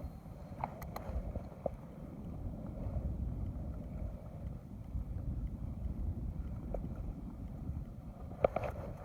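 Wind rumbling on the microphone in an open boat, with a few light clicks and knocks about a second in and a sharper knock near the end.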